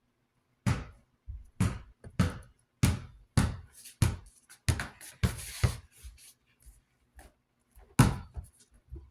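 A run of sharp knocks and clatters of hard objects, irregularly spaced about every half second, with a brief scrape near the middle and one last loud knock near the end.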